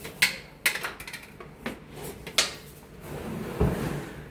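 Hard objects clattering as they are handled: about four sharp knocks and clinks, then a low scraping rumble near the end.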